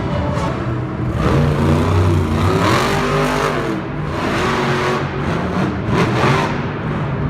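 Monster truck engine revving hard, its pitch climbing and falling away in about the first half, then rising again briefly.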